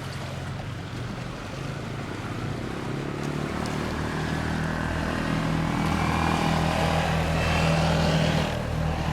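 A boat's motor running steadily and slowly growing louder, with a faint rising whine in the second half.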